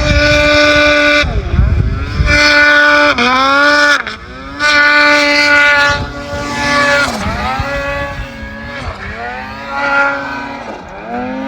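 Snowmobile engine revving hard while riding deep powder. It is held at a high steady pitch for a second or so at a time, then drops and climbs again several times as the throttle is eased off and reopened.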